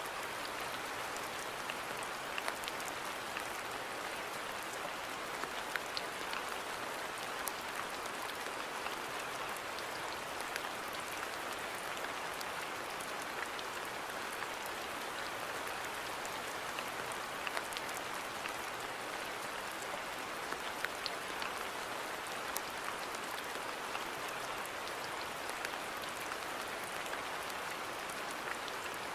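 Steady rain falling on a garden, an even hiss with scattered sharper drop hits.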